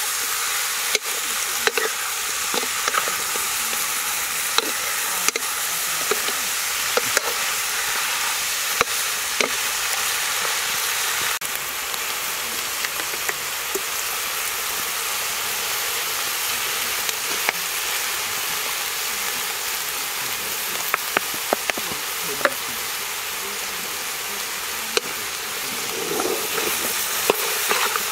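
Snake meat sizzling as it stir-fries in a wok, with a spatula stirring and scraping through the pieces and tapping against the pan in scattered clicks over a steady frying hiss.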